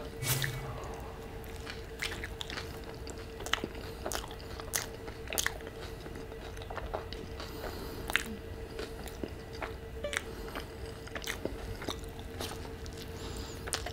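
Close-miked chewing of a burrito: wet mouth smacks and clicks at irregular intervals, with a faint steady hum underneath. Another bite is taken near the end.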